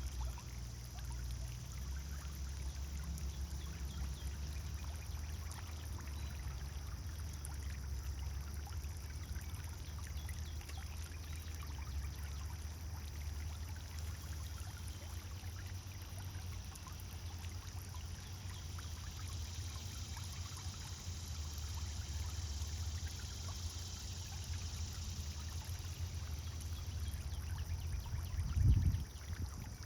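Pond fountain water splashing and trickling steadily over a low rumble, with one brief low thump near the end.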